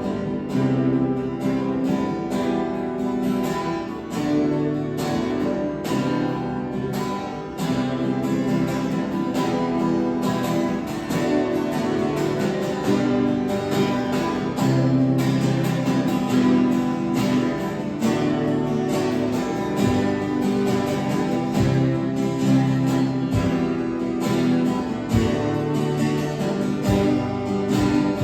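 Instrumental music led by a strummed acoustic guitar, keeping a steady, even rhythm with no singing.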